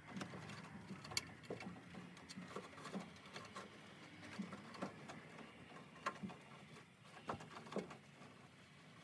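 Scattered light clicks and taps at an irregular pace, like small parts or tools being handled, over a faint low hum.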